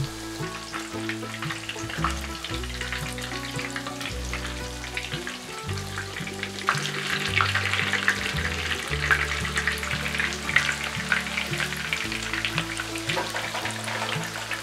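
Breaded chicken pieces shallow-frying in hot oil in a pan: a steady sizzle full of fine crackles, growing busier about halfway through, with light background music underneath.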